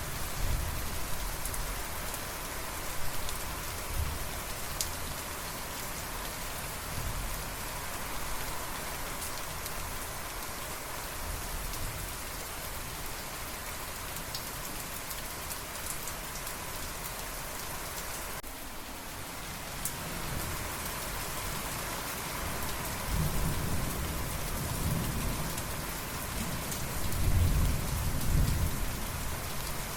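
Steady rain falling, with thunder rumbling low in the background, swelling briefly near the start and rolling more strongly in the last third, loudest near the end.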